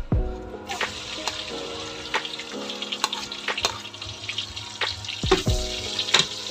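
Chopped garlic and onion sizzling as they hit hot oil in a metal wok. The sizzle starts about a second in, with a metal spatula clicking and scraping against the wok as it stirs, and a couple of sharper knocks.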